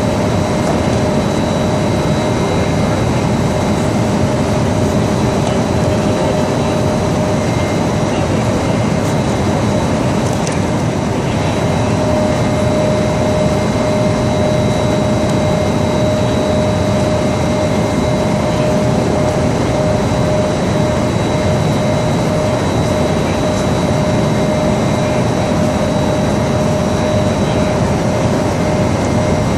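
Industrial aluminum melting furnace running: a steady, loud rushing noise from its burners and blower, with a constant hum and whine over it.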